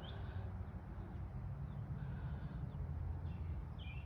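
Faint, scattered bird chirps over a steady low rumble of outdoor background noise.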